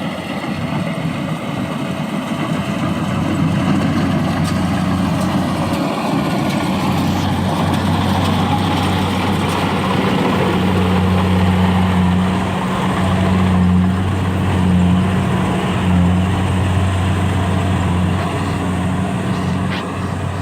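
The engine of a piece of farm machinery running steadily with a low, even hum. The hum grows stronger about halfway through.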